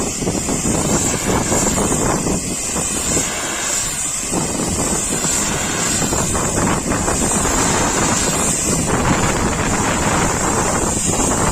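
Steady rushing hiss of a high-pressure washer spraying water onto a truck.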